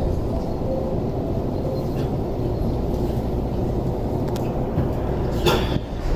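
Steady low rumble and hum of a JR E231-500 series Yamanote Line train standing at a station platform, with a brief sharp hiss about five and a half seconds in.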